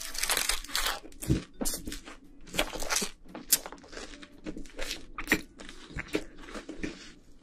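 A person chewing a whole mouthful of pizza taken in one bite, with eating noises coming in irregular bursts.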